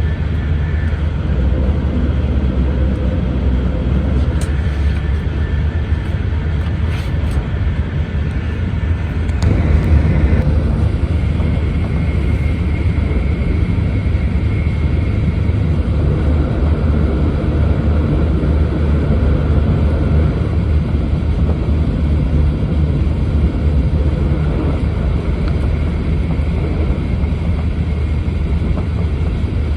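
Running noise inside the cabin of an E4 series double-decker Shinkansen travelling at speed: a steady low rumble and rush of wheels and air. About ten seconds in, the noise briefly swells and changes tone.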